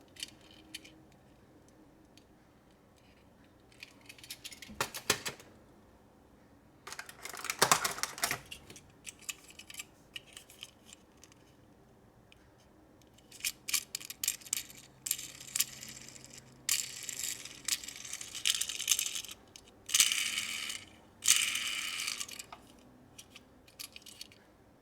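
Small toy cars and their plastic being handled: scattered clicks and clinks. From about halfway through there are several stretches of rustling and scraping, each a second or two long.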